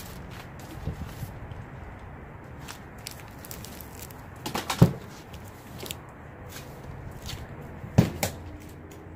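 Two sharp knocks about three seconds apart, the first the louder, amid small clicks and rustling from objects being handled.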